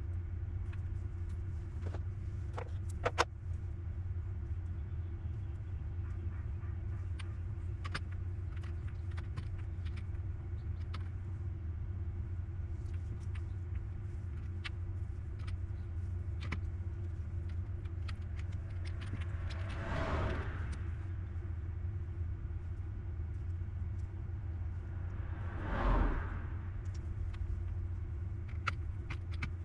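A steady low electrical hum with a faint steady tone above it. Scattered light clicks and taps sound over it, with a sharper double click about three seconds in, and there are two brief whooshing swells, about two-thirds of the way through and again near the end.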